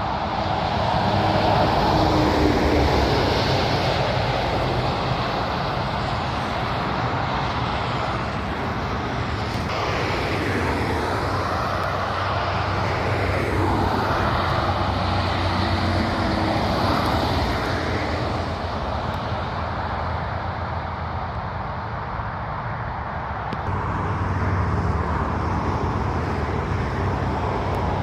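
Heavy road traffic, with trucks' diesel engines running and tyre noise as vehicles pass one after another. The sound swells and sweeps in pitch as vehicles go by.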